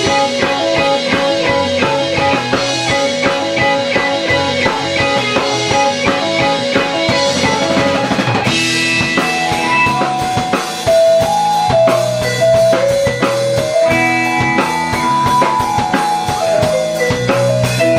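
Live rock band playing: drum kit keeping a steady beat under guitars. About halfway through, a single melodic line steps up and down over the band.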